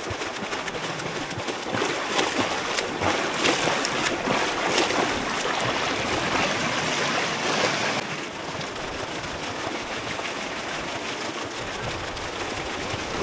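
A swimmer splashing through pool water during a fast 100-metre swim, with a louder, choppier run of splashes from about two seconds in until about eight seconds in, then a softer, even wash of water.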